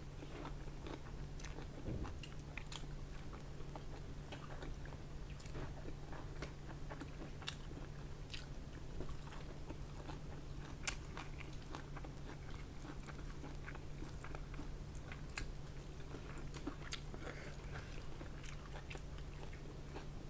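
Close-miked chewing and mouth sounds of someone eating pork curry with bamboo shoot and rice by hand: soft, scattered wet clicks and smacks every second or so, over a steady low hum.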